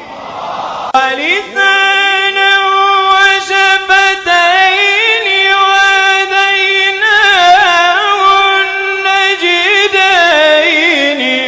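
A solo voice chanting Quran recitation in a long melodic line, holding notes with wavering, ornamented turns. It enters with a rising glide about a second in.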